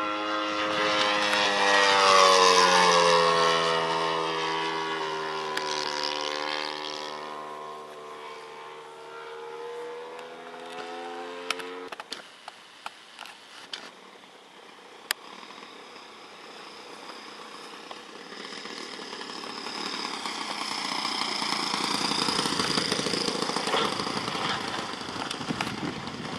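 Saito FG-14 four-stroke gasoline engine of an RC airplane flying past, its pitch dropping as it goes by. The engine note cuts off sharply about halfway through. After a few faint clicks, a rougher engine sound builds up and grows louder over the last seconds.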